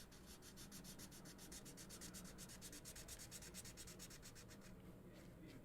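Marker tip scribbling back and forth on paper while colouring in, faint, with about a dozen quick strokes a second, stopping shortly before the end.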